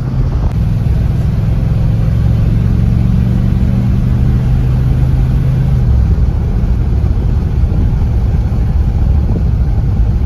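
Cadillac Coupe de Ville's engine running under way, with road noise. Its steady low drone changes and drops away about six seconds in.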